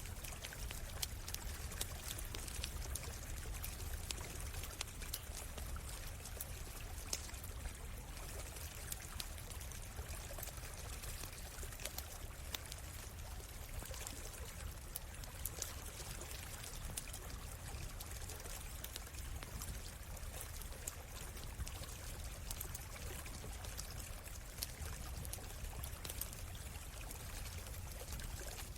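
Stream water flowing and pouring steadily over rocks, with the irregular small pops and ticks of a crackling wood campfire scattered through it and a low rumble underneath.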